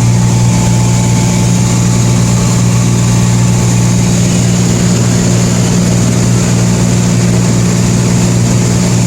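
Aircraft engine and propeller droning steadily at cruise, a loud, even hum with no change in pitch.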